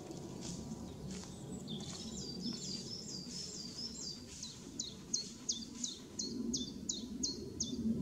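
A bird calling a long run of short, high notes, about three a second, each dropping in pitch, over a steady low background rumble.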